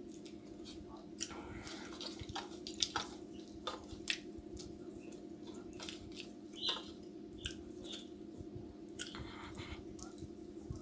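A person eating chicken and samosa with his fingers: chewing and wet mouth smacks with scattered sharp clicks, over a steady low hum.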